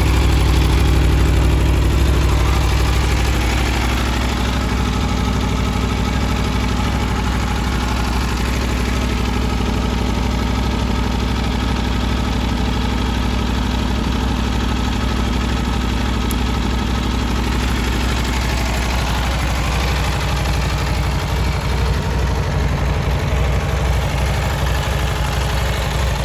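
Aprilia Tuono V4 1100's 65-degree V4 idling through its standard silencer, a steady, throaty note. About three seconds in the idle eases slightly lower and then holds even.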